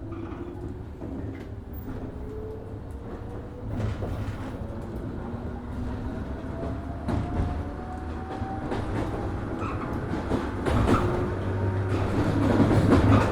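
103 series 1500 subseries electric train accelerating, its traction motor whine rising steadily in pitch, heard from inside the car. Wheels click over the rail joints, and the running noise grows louder toward the end.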